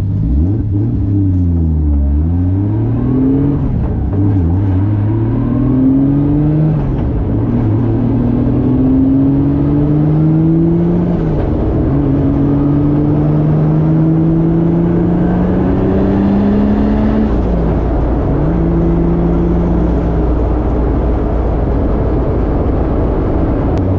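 Nissan 240SX's swapped 1JZ inline-six engine, heard from inside the cabin, pulling away from a stop and accelerating through several gear changes: the pitch rises in each gear and drops at each shift. Near the end it falls back to a low, steady note.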